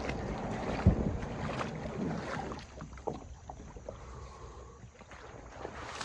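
Kayak on the water: sloshing and hull noise with scattered clicks and a sharp knock about a second in, then quieter from about halfway with only occasional light clicks.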